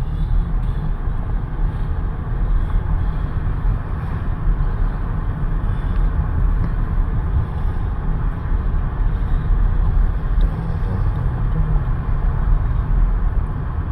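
A car on the move, giving a steady low rumble of engine and road noise.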